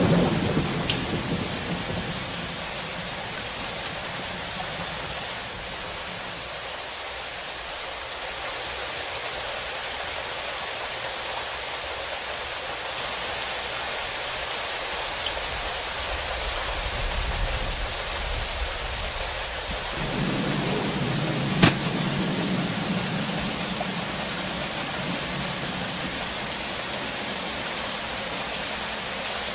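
Steady rain falling, an even hiss without letup. A brief loud burst right at the start and a single sharp knock about two-thirds of the way through.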